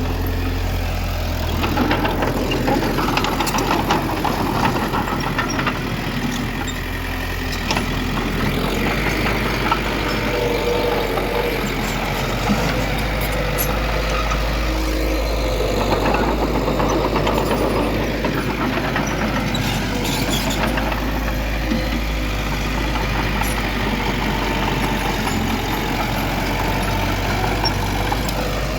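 Diesel engines of heavy earthmoving machinery running steadily, with a constant low hum and a working note that rises and falls, and scattered small clanks.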